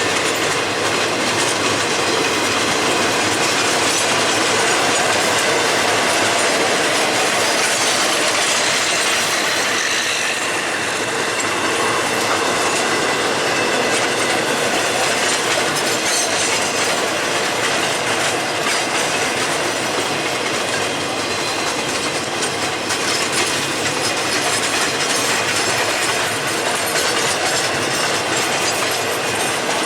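Freight train's cars rolling past at steady speed, a continuous rumble of steel wheels on rail.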